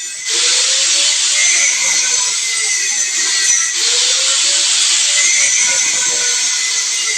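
A small electric motor running in two long runs with a loud hiss over it. Its pitch rises at each start and slowly sags under load, with a brief break in the middle.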